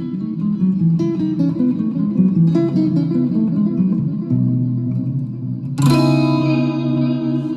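Guitar picking a rhythmic pattern of notes, then a loud chord struck about six seconds in that rings out.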